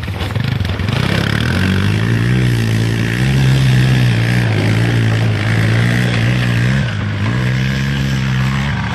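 A vehicle's engine under throttle, its note rising and falling several times as it is driven through a river crossing, with a dip about seven seconds in.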